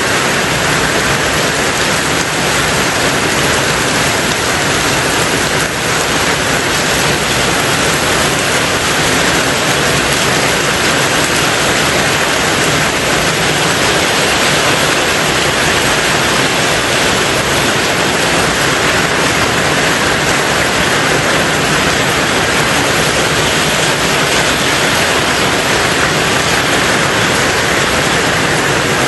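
Steady heavy rain on a tin roof, a dense even hiss with no single drops standing out.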